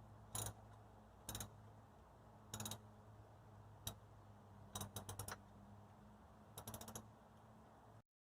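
Ratchet wrench clicking in short bursts, single clicks and then quick runs of several, over a low steady hum.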